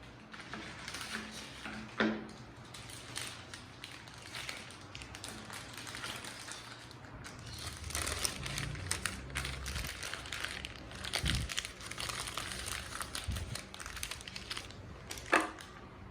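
Hands-on kitchen handling noise: crinkling and rustling with many small clicks, a sharp knock about two seconds in and another near the end, and a few dull thumps in between.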